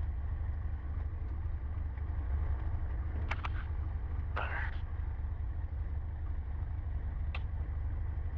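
Cessna 150's four-cylinder engine and propeller idling, heard from inside the cabin as a steady low drone. A few brief short sounds stand out above it, about three and four and a half seconds in.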